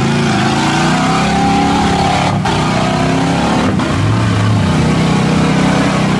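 Chevy 4x4 truck engine running hard at high revs as it drives through a mud bog, with a loud rushing noise over it.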